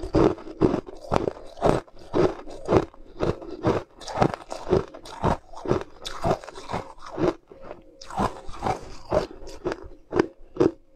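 A person chewing and crunching a mouthful of frozen sweet ice close to the microphone, in a steady run of crisp crunches about two a second.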